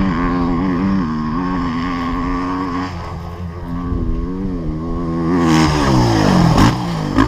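Dirt bike engine running, its note wavering up and down as the throttle changes. Near the end the pitch drops steeply and climbs again, followed by a short sharp knock.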